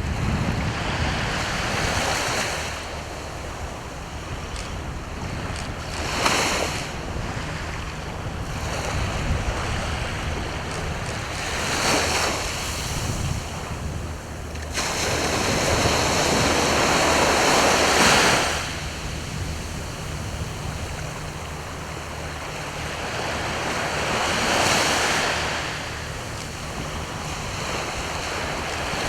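Sea waves breaking and washing ashore, the surf swelling up every few seconds, with one long surge about halfway through.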